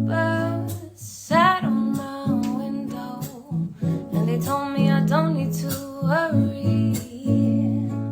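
Song with strummed acoustic guitar chords under a voice singing a sliding melody in phrases.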